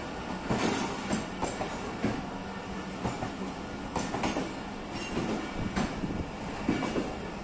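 Pakistan Railways passenger coaches rolling past as the train pulls out, with a steady running rumble. Their wheels clack over the rail joints in irregular sharp knocks.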